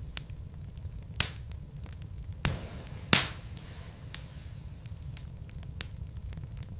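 Wood fire burning in a fireplace: logs crackling with scattered small pops and three louder snaps in the first half, over a steady low rumble.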